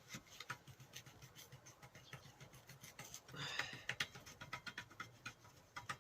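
Faint scattered clicks and light scraping of metal grinder parts being handled and worked loose by hand, with a short rubbing scrape about three and a half seconds in.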